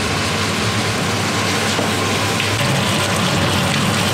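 Chicken pieces and vegetables sizzling in a hot wok as they are stirred with a spatula, a steady frying hiss.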